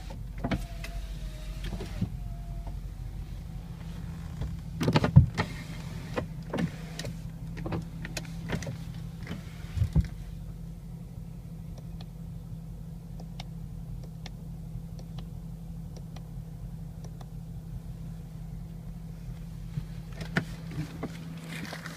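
BMW X5 E53's 4.4-litre V8 petrol engine idling steadily, with scattered light clicks and two louder knocks about five and ten seconds in; a faint wavering whine fades out in the first few seconds.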